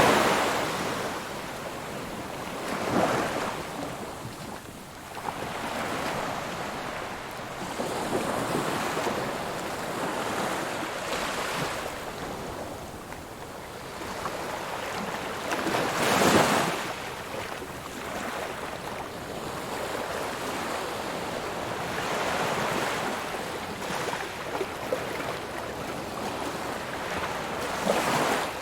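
Ocean waves breaking on a shore, a steady wash of surf that swells every few seconds, with the loudest breakers about 3 and 16 seconds in and again near the end.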